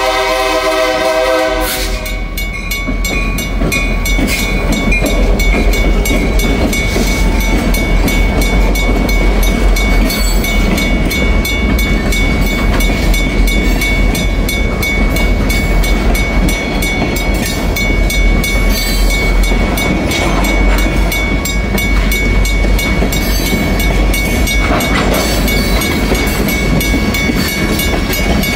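An EMD GP50 diesel locomotive sounds its horn, and the blast cuts off about two seconds in. The locomotive then rumbles past and a long string of loaded tank cars rolls through the crossing, wheels clacking on the rails, over a steady high-pitched ring.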